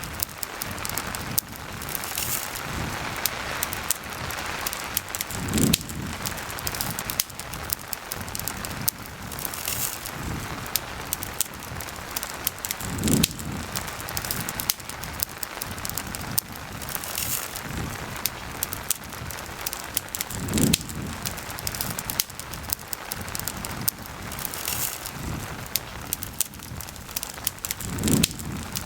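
Steady rain together with a crackling campfire: a constant hiss of rain with frequent sharp crackles and pops from the fire, and a low thump about every seven and a half seconds.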